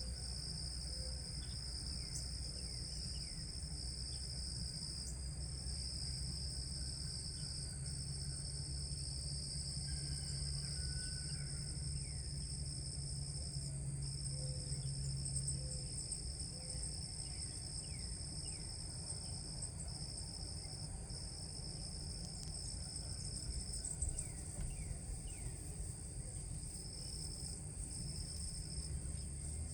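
Steady chorus of insects, a continuous high-pitched trilling, with faint short bird chirps now and then over a low rumble.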